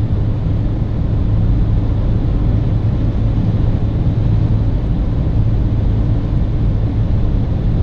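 Inside the cabin of a chip-tuned VW Polo 1.6 TDI diesel at full motorway speed, the engine pulling hard at about 3000 rpm in seventh gear up a slight climb and still gaining speed. Heard as a steady low drone.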